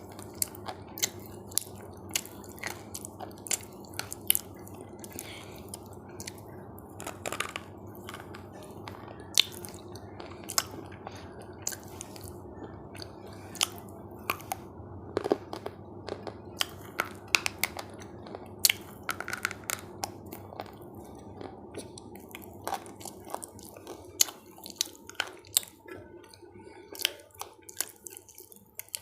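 Close-miked chewing of crunchy food, with many sharp, irregular crunches as it is bitten and chewed, over a steady low background hum.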